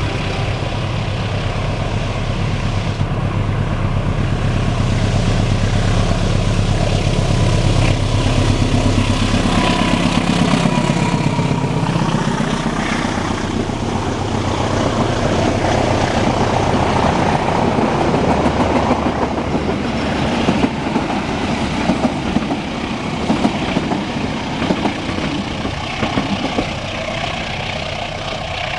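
Diesel locomotive going by, its engine running with a deep drone for the first dozen seconds, followed by the train's carriages rolling past, wheels clacking over the rail joints in the second half.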